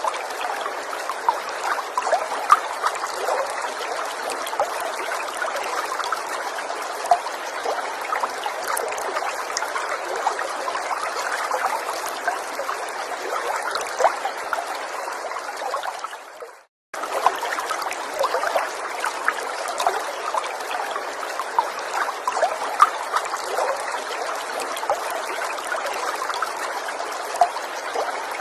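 Small forest stream trickling steadily, with little splashes and drips throughout. Around two-thirds of the way in it fades out to a moment of silence, then starts again abruptly.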